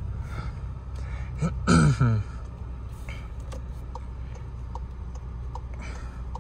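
Inside the cabin of a manual car moving off slowly in first gear: the engine runs with a steady low hum. About one and a half seconds in, a short loud vocal sound falls in pitch, like a throat clearing. Faint regular ticks follow, about two a second.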